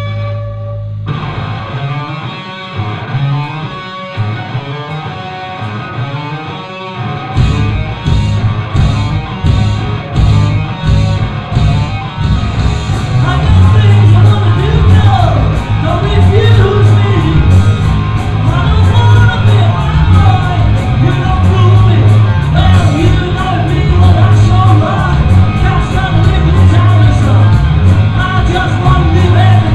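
Live rock band playing: electric guitar carries the opening bars, cymbals and drums come in about seven seconds in, and the full band is playing loud from about thirteen seconds on.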